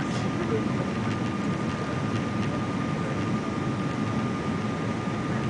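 Steady cabin noise of a Boeing 777-200ER in flight: an even rumble of the engines and rushing air, with a thin steady whine above it.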